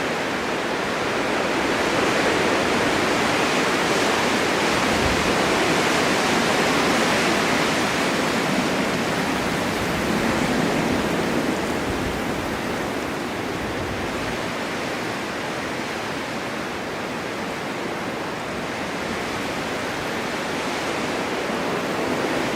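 Snowstorm wind rushing steadily, swelling a little louder in the first half and easing off after.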